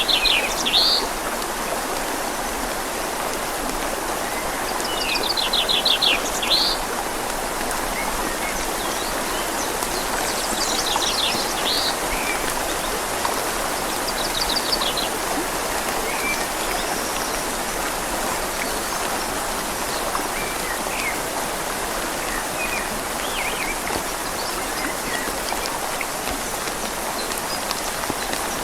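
Steady rain falling on leaves and a river flowing, an even rushing wash. Over it a bird sings short, high trilled phrases four times in the first half, then gives fainter scattered chirps.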